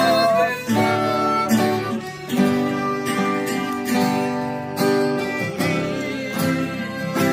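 Acoustic guitar strummed in steady chords as accompaniment to a singalong song, with a melody line carried over it between the sung verses.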